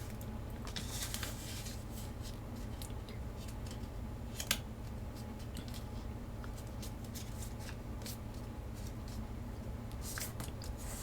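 A square sheet of origami paper being handled and folded: quiet, scattered rustles and crisp creasing crackles, with a sharper crackle about four and a half seconds in and a cluster of rustles near the end.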